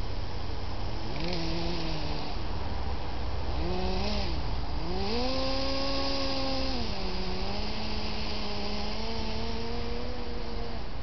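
Electric drive motors and gearing of a Kyosho Blizzard RC snowcat whining, their pitch rising and falling with the throttle. The pitch goes up briefly about a second in, is highest for a couple of seconds around the middle, then drops and stays steady until near the end, over a steady low rumble.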